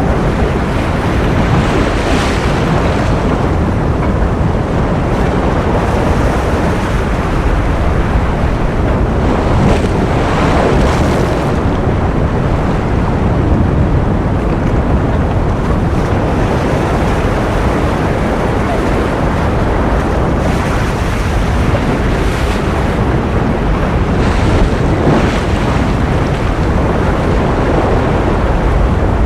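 Steady ocean surf noise, heaviest in the low end, with gentle swells rising and falling every several seconds.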